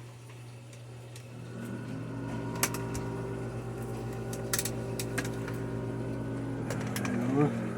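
Well pump running with a steady mechanical hum that builds about a second and a half in, over a constant low hum, with a few sharp clicks, as water pressure comes back after a new 40-60 pressure switch. A short vocal whoop comes near the end.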